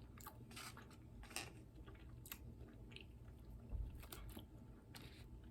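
Faint, close-up chewing of a mouthful of taco: soft, irregular wet mouth clicks and smacks.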